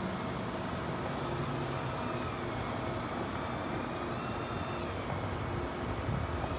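Steady mechanical noise with a faint high whine that wavers up and down in pitch.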